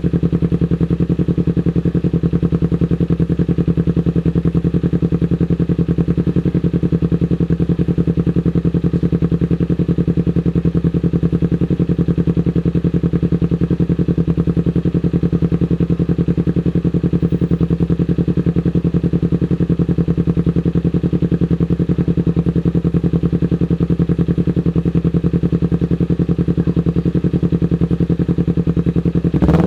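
Kawasaki Ninja 250 FI's parallel-twin engine idling steadily at an even, unchanging pitch, with a brief sharper sound right near the end.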